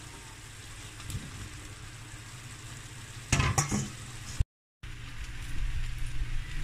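Ham and onion sizzling in a wok, with a quick run of sharp clacks about three seconds in as metal tongs knock against the pan while setting down blocks of instant noodles. After a brief cut to silence, the frying goes on over a steady low hum.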